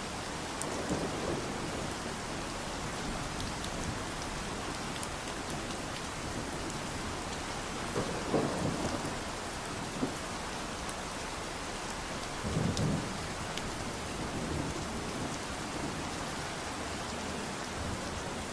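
Steady rain falling in an even hiss, with three short, deeper surges about a second, eight seconds and twelve seconds in.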